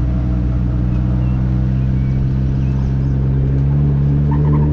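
Turbocharged Mazda Miata four-cylinder engine running at steady low revs while the car rolls along slowly, with the pitch rising slightly near the end.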